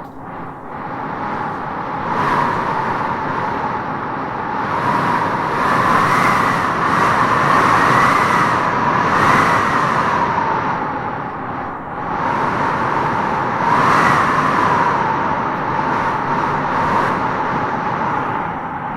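Howling wind gusting through trees: a continuous rushing noise that swells and eases in gusts, with a wavering whistle that rises and falls on the stronger gusts, loudest through the middle and again about three-quarters of the way through.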